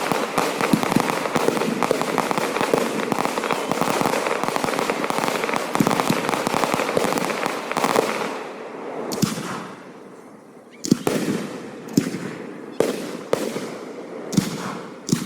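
Aerial fireworks: a dense, rapid crackling and popping for about eight seconds that then dies away, followed by a string of separate sharp bangs, roughly one a second.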